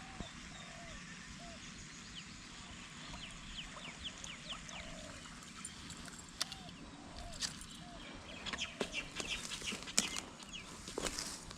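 Chickens clucking, short low calls repeating every half second to a second. In the second half, rustling and a run of sharp clicks join in and grow louder.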